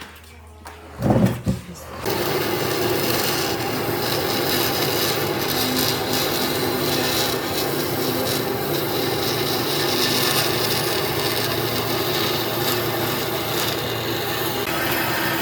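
Power tool working wood, starting about two seconds in and running steadily, with a dense grinding noise of the tool biting into the wood. Just before it, a single loud knock.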